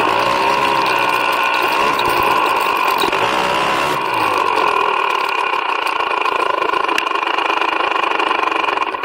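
Motorised snowbike's engine running steadily under way, its pitch wavering slightly in the first few seconds.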